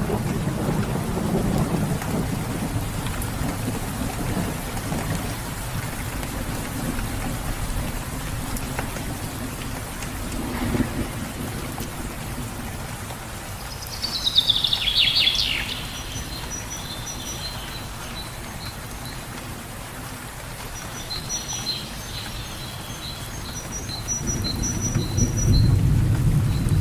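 Steady rain with low rolling thunder, strongest at the start and building again near the end. A bird gives a quick burst of chirps about halfway through, then a run of short repeated high chirps in the last few seconds.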